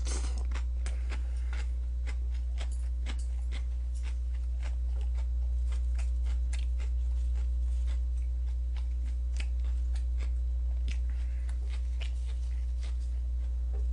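Close-miked chewing of crisp radish salad (musaengchae), with many short crunchy clicks, several a second, over a steady low electrical hum.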